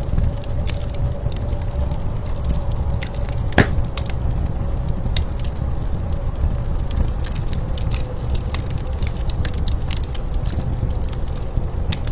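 Wood fire crackling with frequent sharp pops, one louder pop about three and a half seconds in, over a steady low rumble of blizzard wind.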